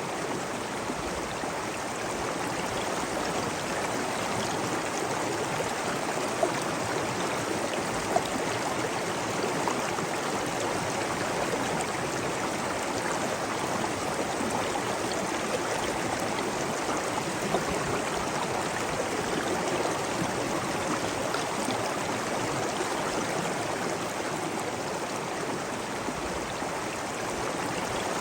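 Steady rushing, splashing water of a stream or cascade, with a few brief louder splashes standing out now and then.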